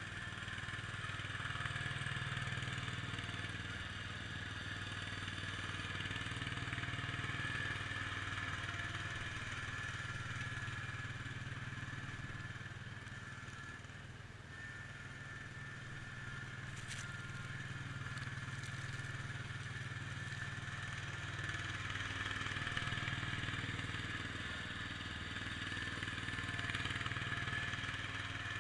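IH Cub Cadet 147 garden tractor's engine running steadily under load while plowing snow, its level swelling and easing off and dipping briefly about halfway through.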